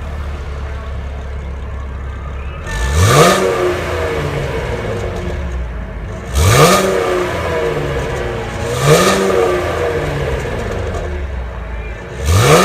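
2016 Chevrolet Camaro 2LT's 3.6-litre V6 idling, then revved four times in short blips, each rising quickly and falling back to idle; the last comes near the end.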